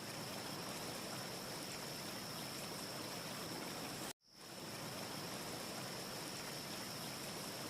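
Steady ambience of wind with a dense fireplace crackle, with a thin high tone held over it. About four seconds in it cuts out for an instant and fades back in.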